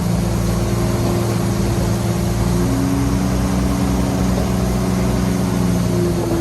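Heavy diesel engines of earthmoving machinery running steadily under load, one engine note shifting slightly in pitch about three seconds in.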